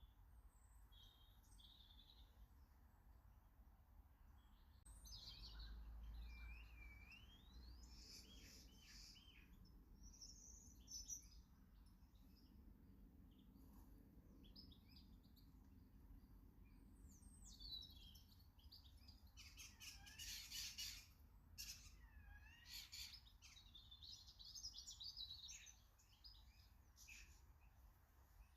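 Small garden birds chirping and calling faintly, a mix of short tweets and sliding whistled notes that come and go in flurries.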